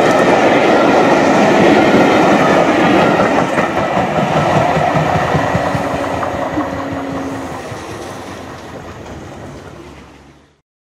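Passenger coaches of a passing train rolling on the rails, the wheels clicking over the rail joints. The sound fades steadily as the train draws away, then cuts off abruptly just before the end.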